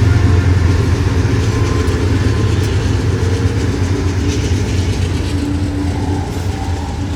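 Departing BNSF freight train: the diesel locomotives' deep engine drone, slowly easing, with wheel clatter from the rolling cars and a faint steady squeal starting near the end.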